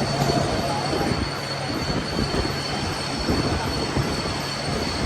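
Heavy metal lathe running on a large steel shaft: a steady grinding, metallic machining noise with a constant high whine and a low hum underneath.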